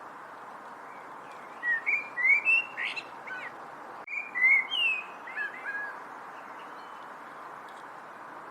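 A songbird singing two short phrases of clear whistled notes that glide up and down, the first about two seconds in and the second about four seconds in. A steady background hiss runs underneath.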